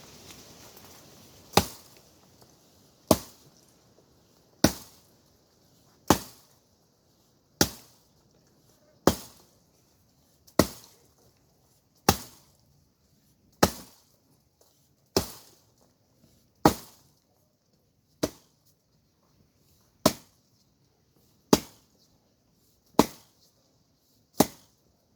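Axe chopping wood in a steady rhythm, one sharp strike about every second and a half, sixteen strikes in all. The wood is hard and the axe blunt.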